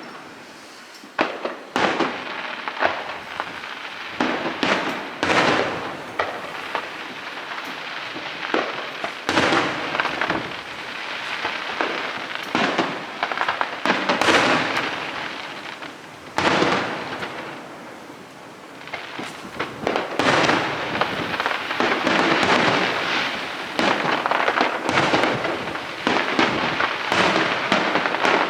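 Fireworks display: aerial shells bursting one after another with sharp bangs and crackling, denser and nearly continuous in the last third.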